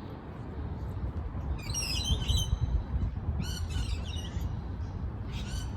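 Unseen songbirds calling in short bursts of high, quickly gliding chirping notes, about two seconds in, again about three and a half seconds in, and briefly near the end, over a steady low rumble.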